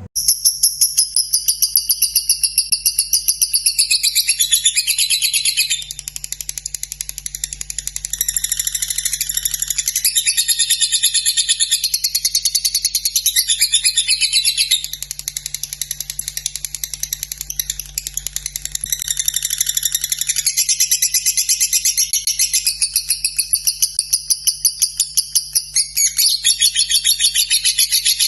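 Lovebird singing a long unbroken run of rapid, high-pitched chattering trill with a fast regular pulse: the drawn-out 'ngekek' song that lovebird keepers prize.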